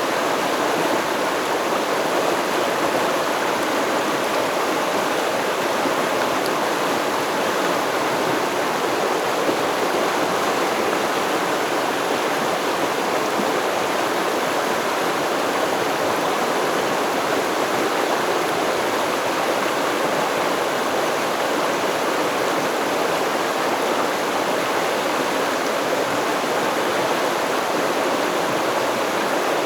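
Shallow stream flowing and babbling over rocks: a steady, even rush of water.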